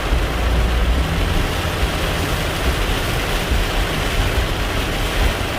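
Heavy rain falling on a moving car, a steady dense hiss over a low road rumble, heard from inside the cabin.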